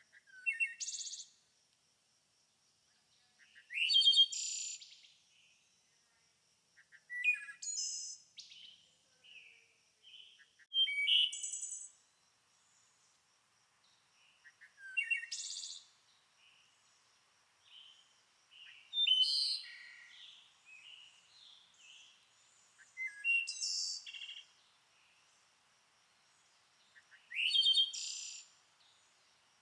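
A songbird singing short, repeated phrases about every four seconds, each a quick rising sweep into a burst of high notes. A faint, steady high-pitched tone runs underneath.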